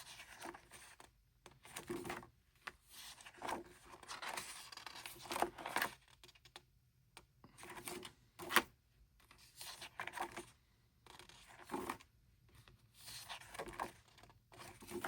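Pages of an album photobook being turned one after another: a string of irregular paper swishes and rustles, with a few sharper flicks.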